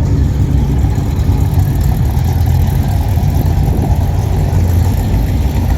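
Strong wind buffeting the microphone: a loud, uneven low rumble with no distinct events.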